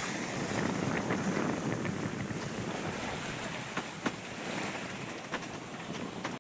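Sea water rushing past a sailboat's hull and wind buffeting the microphone, a steady noise with a few short sharp ticks scattered through it.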